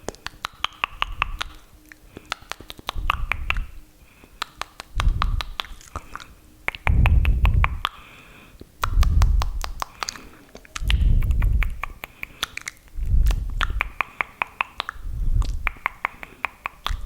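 Close-miked wet mouth sounds for ASMR spit painting: rapid trains of moist clicks and smacks, with a soft low swell about every two seconds.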